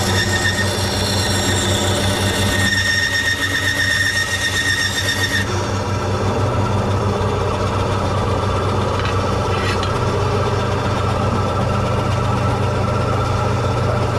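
Electric sander running steadily against a wooden guitar body, with a high whine that drops away about five seconds in.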